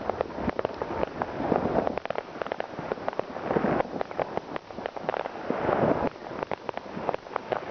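New Year's Eve fireworks going off: many overlapping bangs, pops and crackles in a dense, unbroken stream that swells and eases every second or two.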